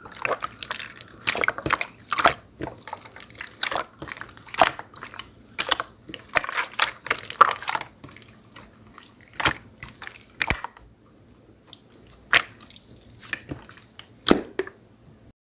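Soft water-jelly slime being squeezed and poked by hand, giving irregular wet clicks and squelches several times a second. The clicks thin out to a few scattered ones over the last few seconds.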